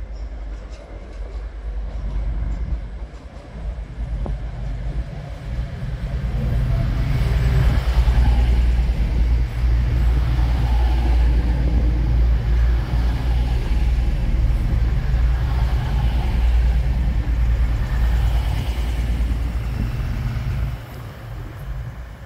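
Diesel passenger train running alongside the platform with a heavy low rumble of engine and wheels, building over the first several seconds, holding loud, then dropping away sharply near the end.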